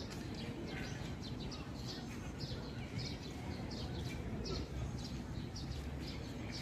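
Small birds chirping, short high calls repeating about twice a second, over a steady low background rumble.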